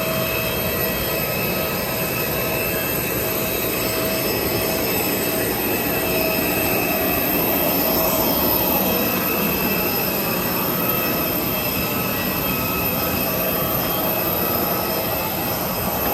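Steady airliner cabin noise with the plane parked before departure: an even rushing hum from the aircraft's systems with several steady high whines over it, swelling slightly about halfway.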